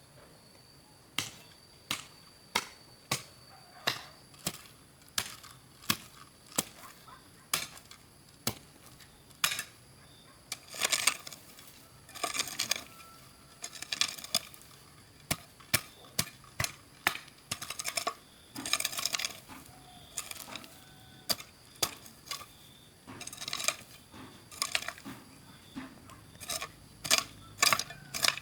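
Repeated sharp knocks or strikes, about two a second, with a few short scraping bursts in between, like steady work with a hand tool.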